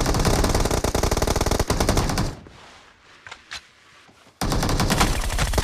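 Automatic gunfire from a shooter video game: a long rapid burst that stops a little over two seconds in, a couple of single shots, then another rapid burst starting about four and a half seconds in.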